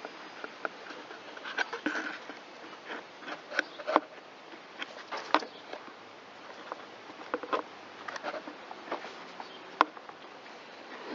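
Irregular light clicks and knocks of plastic and metal parts being handled and fitted together on a Stihl MS193T chainsaw, with the chain brake cover being put on over the bar and chain. A few sharper knocks stand out, about four, five and ten seconds in.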